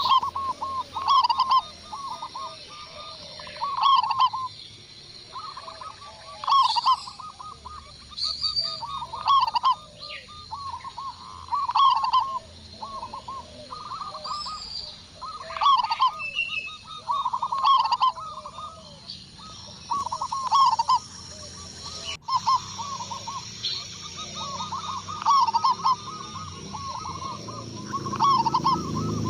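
Zebra dove (perkutut) cooing: short bursts of rapid rippling notes, repeated every one to two seconds.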